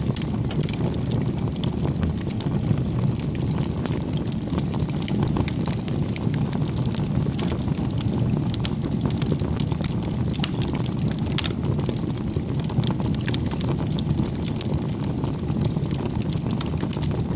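Wood fire burning, with a steady low rumble of flames and many small sharp crackles and pops throughout.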